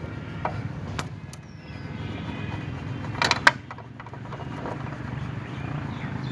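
Metal clinks and knocks as a motorcycle's rear axle rod is worked out of the wheel hub: a few light clicks, then a louder clatter about three seconds in, over a steady low background rumble.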